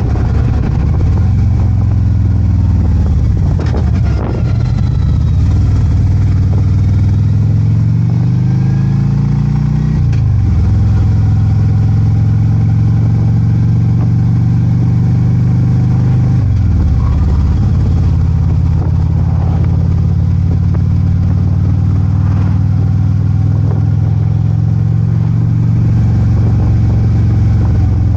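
Harley-Davidson Ultra Limited's V-twin engine running on the move: the pitch climbs as it accelerates about a third of the way in, drops sharply at a gear change, then holds steady, with a brief dip and recovery in revs a little past halfway.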